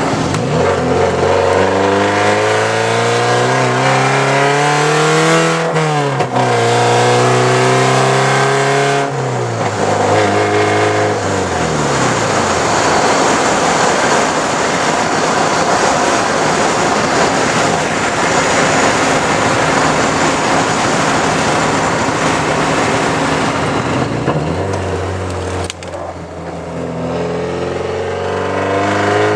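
1983 Porsche 944's four-cylinder engine through a straight-piped exhaust, catalytic converter and muffler cut out, pulling through the gears. The engine pitch climbs, drops at a shift about six seconds in and climbs again. This gives way to a long stretch of steady loud running under a rushing noise, then settles lower and rises once more near the end.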